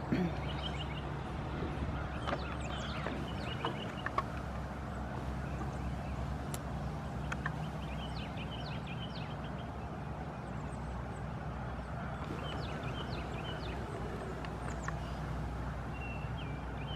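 Small songbirds chirping and trilling, with repeated quick high chirps scattered throughout, over a steady low hum.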